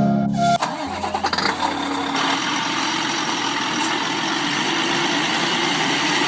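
A short bit of music ends about half a second in, and a vehicle engine then runs steadily, like a truck engine.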